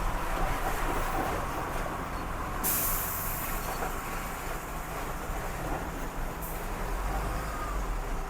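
Truck engine running low as the truck crawls along a rough road, with a loud hiss of compressed air from the truck's air brakes that starts suddenly about three seconds in and cuts off sharply nearly four seconds later.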